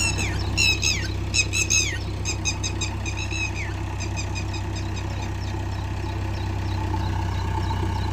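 An engine idling steadily, with a series of high, sharp squawks that fall in pitch, about two a second, through the first three and a half seconds, then fainter short chirps.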